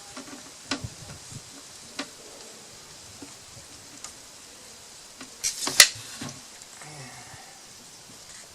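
Light clicks and knocks of a plastic bucket being handled, with a louder cluster of clatter about six seconds in, over a steady low hiss.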